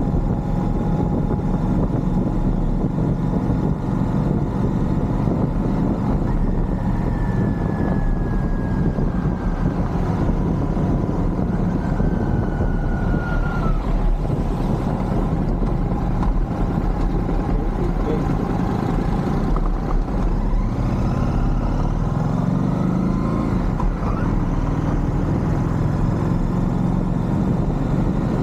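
Royal Enfield Shotgun 650's 648 cc parallel-twin engine running steadily while riding, with the revs rising and changing about three-quarters of the way through.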